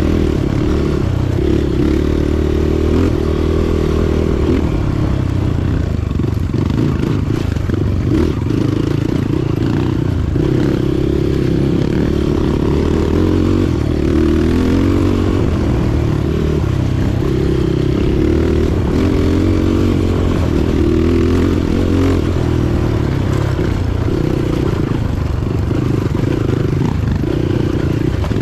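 Motorcycle engine running while being ridden, a loud, steady drone with a wavering low note.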